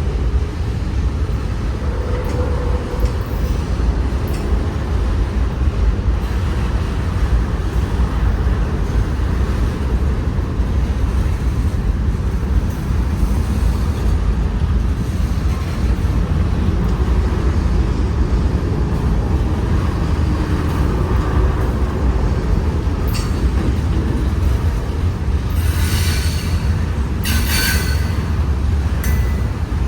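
Freight train rolling past, a steady rumble of cars on the rails, with a few short high-pitched wheel squeals near the end.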